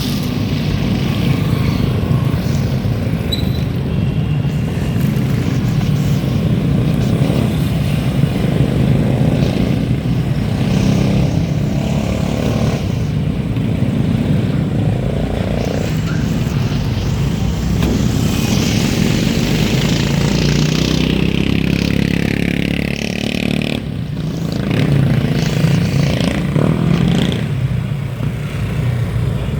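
Steady low rumble of wind and road noise from a ride in traffic, with a vehicle passing about twenty seconds in, its sound sliding down in pitch.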